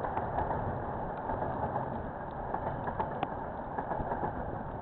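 Freight train wagons rolling past at a distance: a steady rumble, with scattered light ticks throughout.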